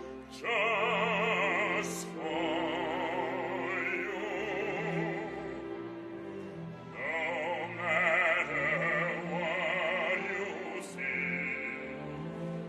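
Operatic singing: a high voice with wide vibrato over a steady instrumental accompaniment, sung in long phrases with short breaks between them.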